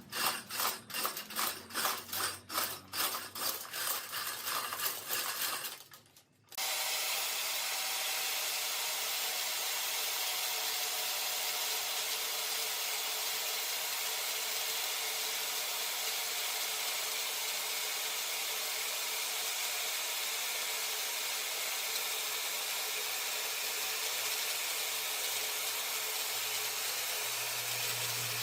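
Rhythmic rubbing or rasping strokes on wood, about three a second, then a sudden cut about six seconds in to a steady, even hiss of wood being worked.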